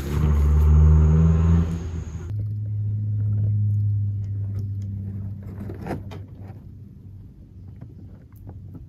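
Car engine running loud and deep for about two seconds, then a steadier low engine drone that fades away.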